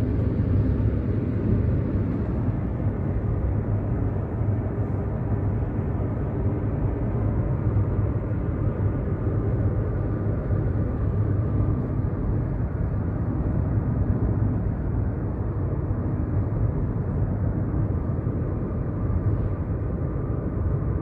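Car cruising at steady speed on a highway: an even rumble of engine and tyres on the road with a low hum.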